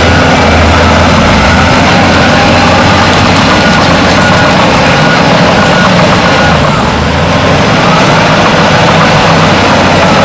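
Heavy diesel earthmoving machinery working: loud, steady engine noise with a dense clatter over it, and faint short beeps repeating in the background.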